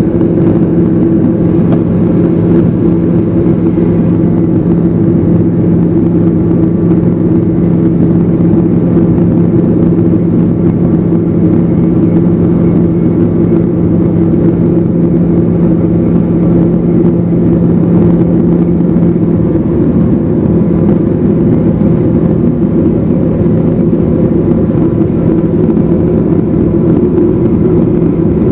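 Evektor SportStar's Rotax 912 four-cylinder engine and propeller droning steadily in flight, loud and even, with the engine note dropping slightly about two-thirds through.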